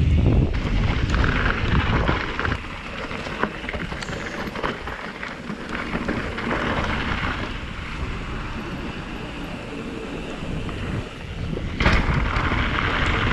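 2019 Commencal META TR 29 trail bike rolling fast down a rocky mountain bike trail: tyres rattling over rocks and roots with many small clicks and knocks, under steady wind rush on the action camera's microphone. The rumble is heavier at the start and again near the end.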